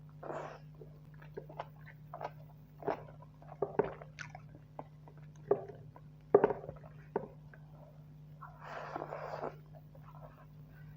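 Close-miked mouth sounds of a person eating rice with spicy buffalo curry: irregular wet chewing and lip smacks, loudest about six seconds in, with a longer rustling, breathy stretch around nine seconds in. A steady low hum runs underneath.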